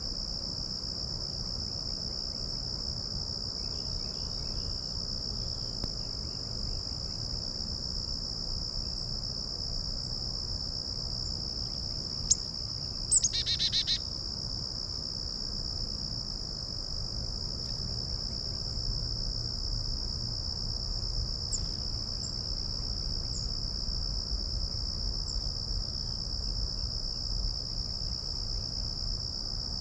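A steady, high-pitched insect chorus of crickets trilling without a break. About 12 seconds in there is a sharp click, followed by a loud, quick run of bird notes lasting about a second, and a few faint high bird chirps come later.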